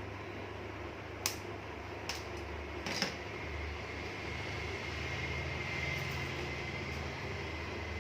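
Steady low background hum with three sharp clicks about a second apart in the first three seconds. A faint thin whine sits in the background later on.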